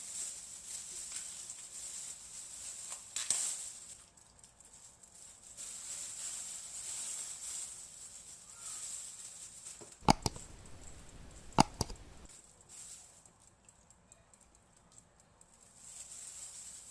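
Green beans being handled and put into a bowl of vinegar water: faint rustling and patter, with two sharp knocks about a second and a half apart past the middle.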